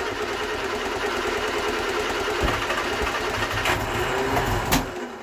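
Vauxhall Viva HC four-cylinder engine running, with a fast, even chuffing from an exhaust blow at the downpipe and middle-section joints.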